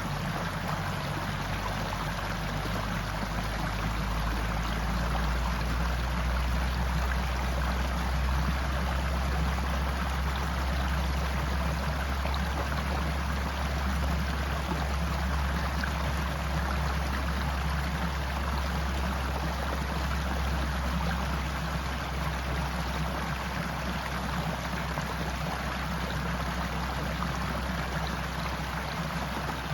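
Stream water flowing steadily with an even rushing sound and a constant low rumble underneath.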